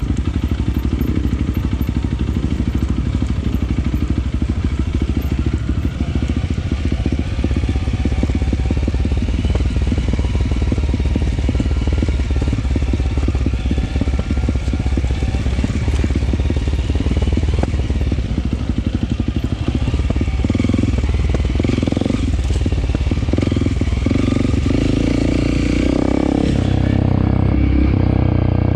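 Honda CRF300L's single-cylinder engine running as the motorcycle rides off-road singletrack, a steady dense pulsing with its note changing a couple of seconds before the end.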